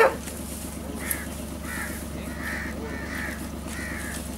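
A bird calling over and over: short, arched, scratchy calls coming about one to two times a second, after one loud bark-like call right at the start.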